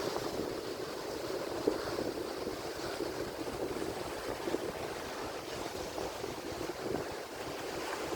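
Atlantic Ocean surf washing onto the shore in a steady hiss of breaking water, with a few brief splashy peaks.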